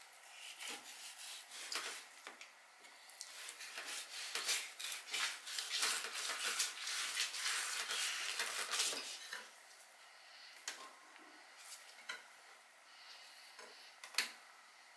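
Large kitchen knife scraping and rasping against a wooden cutting board while skinning a sea bass fillet: a dense run of strokes, loudest in the middle, that stops about nine and a half seconds in. After that, a few separate light clicks and knocks.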